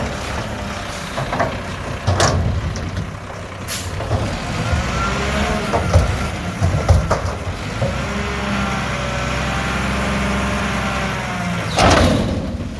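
Mack garbage truck with a McNeilus front-loader body, engine running with a steady low rumble. Air brakes hiss briefly about two seconds in and more loudly near the end, and a wavering pitch rises and falls through the middle.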